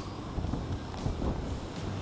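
Wind buffeting the microphone, a steady low rumble with a few faint irregular knocks.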